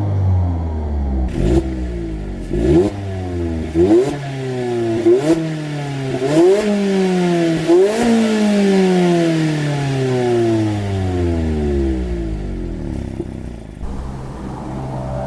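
Mazda ND Roadster's four-cylinder engine and exhaust, revved in about six sharp throttle blips with the revs falling away between them, then dropping slowly to a low steady idle.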